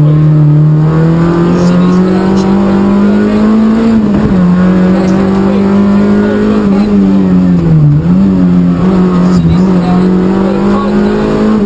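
Peugeot 106 Rally N2's four-cylinder engine heard from inside the cabin, running hard at high revs on a rally stage, with brief dips in revs about four, eight and nine and a half seconds in, and the revs falling near the end.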